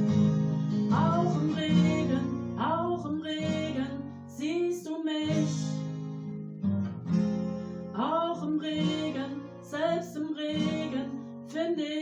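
Acoustic guitar strummed steadily, with a woman singing over it in phrases a few seconds apart.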